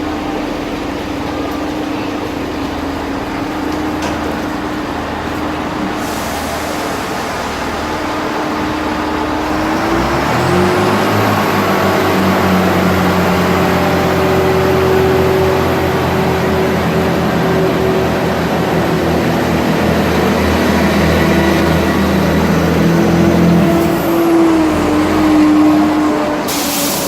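Diesel passenger train idling at the platform, then its engine revs up about ten seconds in as it pulls away, with a high whine rising and holding. The engine note drops back near the end.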